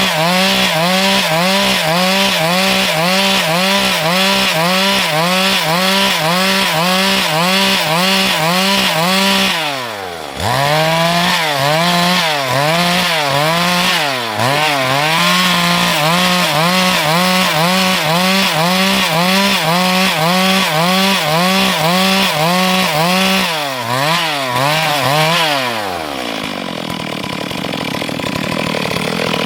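Stihl MS 382 two-stroke chainsaw running at high revs while cutting wood, its pitch wavering with the load of the cut. It drops sharply for a moment about a third of the way in, and near the end falls to a lower, rougher note before picking up again.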